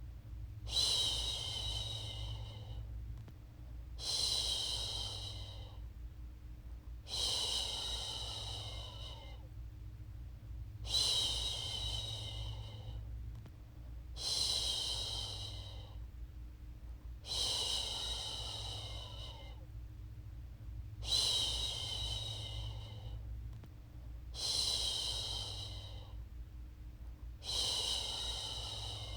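A woman's voice shushing a baby to sleep with long 'shhh' sounds, repeated about every three seconds, each starting strongly and trailing off, over a low steady hum.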